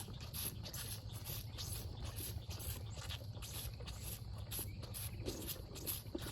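Cattle grazing close by: a run of quick, irregular crisp rips as grass is torn and chewed.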